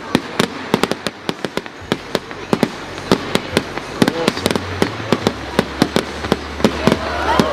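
Fireworks display: rapid bangs and crackles, several reports a second, with a few whistling glides near the end.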